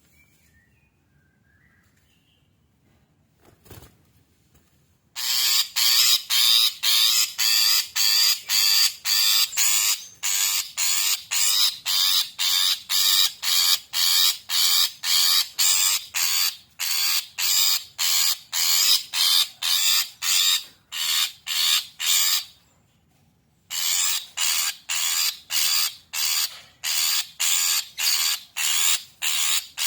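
Long-tailed shrike (cendet) giving a loud, agitated run of harsh, rasping notes at about three a second, starting about five seconds in after faint chirps. The notes break off for about a second near the end, then start again.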